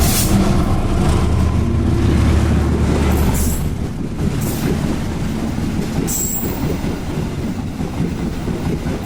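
Jayakarta passenger train passing close by: the locomotive's heavy low rumble for the first few seconds, then the carriages rushing and clattering past, slowly fading, with a short high squeal about six seconds in.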